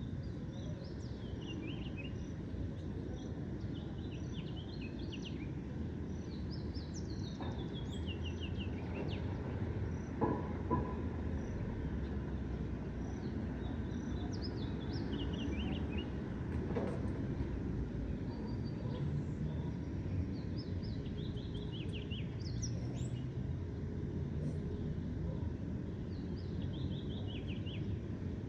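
Birds singing in short runs of descending notes, repeated every few seconds, over a steady low rumble of distant city traffic. Two brief knocks sound about ten seconds in.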